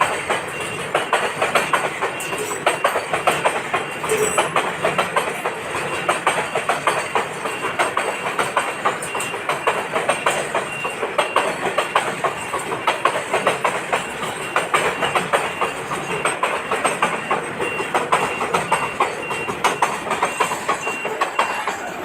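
Goods train passing, its wagon wheels clattering over the rail joints in a fast, continuous run of clicks.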